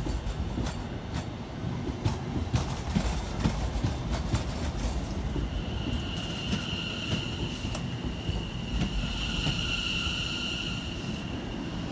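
A train running past, its wheels knocking over the rail joints over a low rumble. About halfway through, a steady high-pitched wheel squeal sets in and holds.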